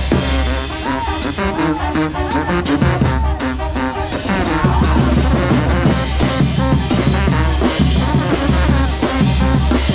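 Brass band music: a Oaxacan banda de viento playing with brass and a steady beat of bass drum and snare.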